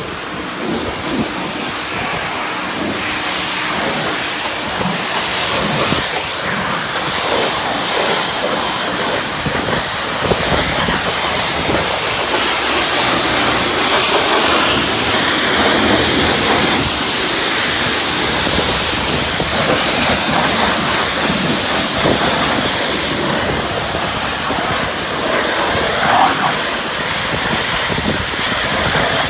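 High-pressure washer wand spraying water onto a car's body, a loud, steady hiss and spatter.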